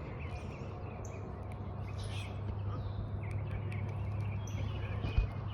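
Small birds chirping now and then, short scattered calls over a steady low outdoor hum.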